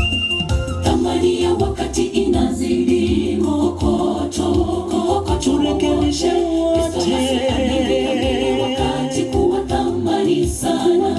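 A group of voices singing a gospel song in harmony, several wavering sung lines together, with a low pulse underneath.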